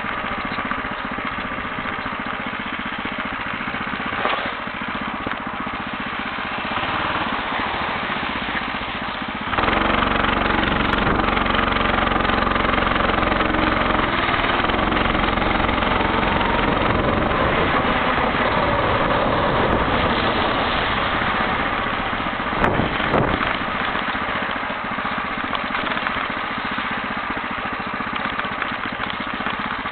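Engine of a homemade motorcycle running as it is ridden. The sound gets louder and fuller about ten seconds in, then drops back about twenty-two seconds in.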